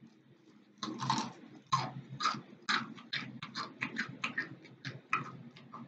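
Close-up chewing: a run of short, sharp, wet mouth clicks and smacks that begins about a second in, several a second.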